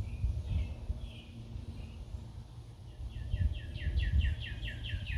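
A songbird singing a rapid trill of short downward-sliding chirps, about five a second, starting about three seconds in, with fainter chirps before it. A steady low outdoor rumble runs beneath it.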